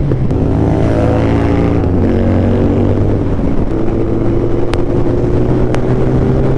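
Suzuki Hayabusa Gen 3's inline-four engine through an Akrapovic full-system exhaust, pulling hard under acceleration. The pitch drops sharply at the start and again about two seconds in as the rider shifts up, then holds and slowly climbs.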